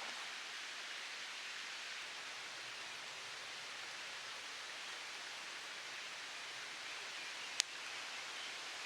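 Wood campfire burning with a steady hiss, and one sharp pop of crackling wood near the end.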